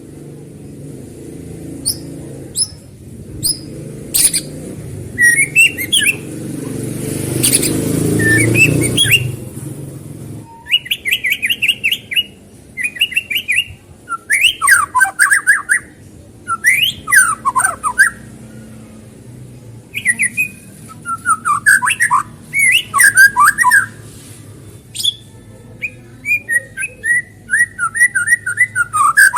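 White-rumped shama song used as a provocation track to set off a rival bird: rapid phrases of whistles and chattering notes, some sliding downward. For the first ten seconds a low rumbling background noise sits under a few short calls, then it cuts off and the song becomes dense.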